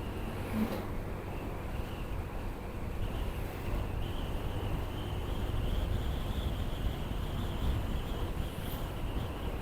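Motorcycle ride heard from the rider's action camera: wind rumble on the microphone and engine hum, with a steady high-pitched buzz above it and a brief knock just over half a second in.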